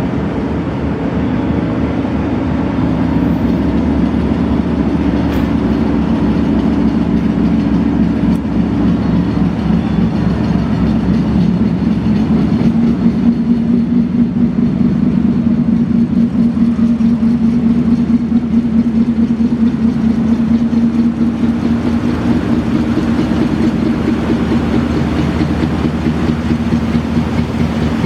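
Double-deck ferry's engines running steadily under way: a loud, deep, even drone with a fast throb.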